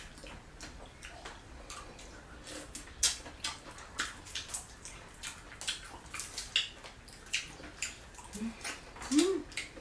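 Wet eating sounds of seafood being eaten by hand: irregular smacking, sucking and clicking of mouths and shells, with a short low hum near the end.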